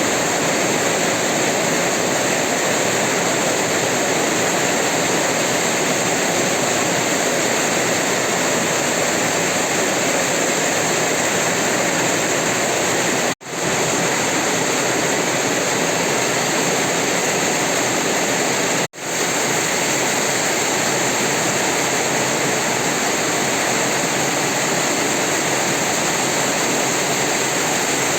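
Heavy tropical rain falling steadily, a dense even hiss of water. The sound cuts out for an instant twice, about halfway through and again about two-thirds of the way through.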